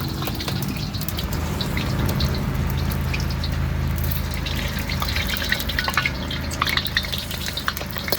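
Street-kitchen cooking sounds: a steady watery hiss of liquid over a low steady hum. Scattered sharp clicks and taps of utensils become busier in the second half.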